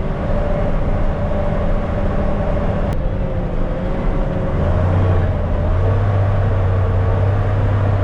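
Diesel engine of a loaded 1974 Kenworth log truck running steadily on the road, with a single click about three seconds in. About halfway through, its low engine note grows stronger and holds.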